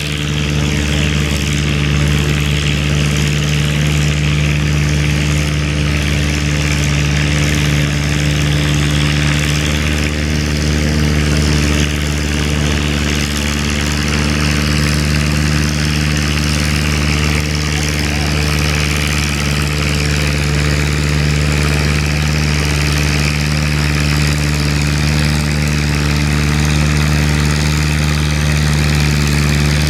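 Antique farm tractor engine running steadily at an unchanging speed.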